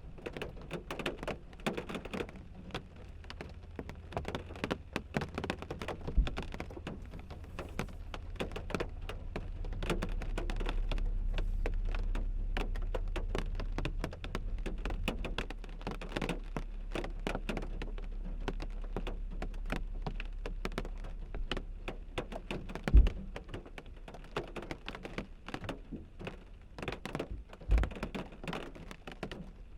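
Rain falling on a car windshield, the drops tapping on the glass in an irregular scatter of small ticks, with a few heavier knocks, the loudest about two-thirds of the way through. A low rumble swells up in the middle and fades again.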